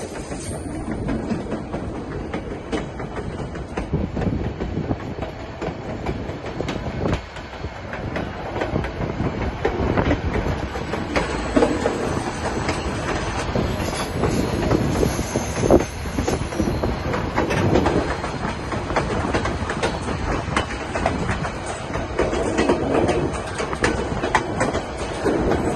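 White Pass & Yukon Route narrow-gauge train rolling along the track: a steady rumble with the wheels clacking over the rail joints.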